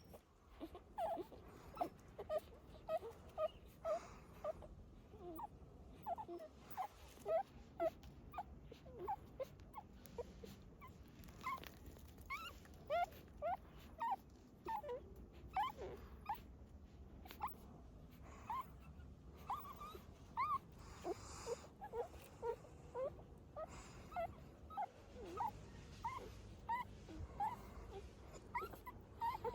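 Newborn puppies whimpering, a steady run of short, high squeaky cries, a couple each second.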